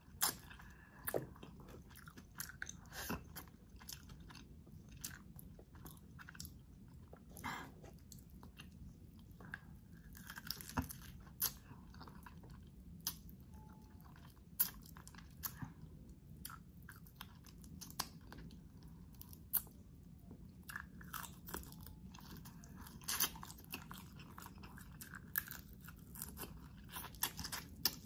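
Close-miked chewing and biting of whole spicy garlic butter shrimp, with irregular sharp crunches scattered throughout.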